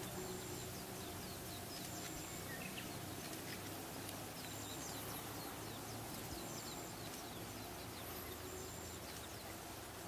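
Birds calling in trackside woods: clusters of quick falling chirps, and a short high note repeating about every second and a half, over a faint steady low hum.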